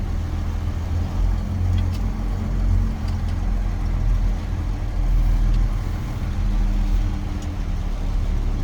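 International 4900 truck's diesel engine running steadily, a continuous low rumble heard from inside the cab.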